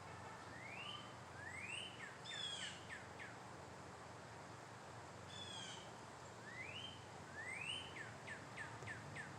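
A songbird singing one phrase twice, about five seconds apart: two rising whistled notes, then a quick run of short falling notes. There is also a brief burst of high falling notes between the two phrases.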